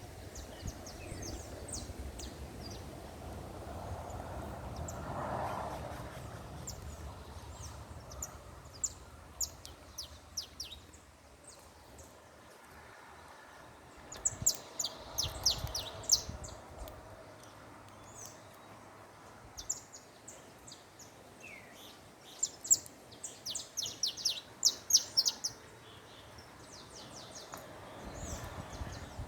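Small birds chirping: many short, high calls in quick clusters, thickest about halfway through and again near the end, over a low rumbling background noise.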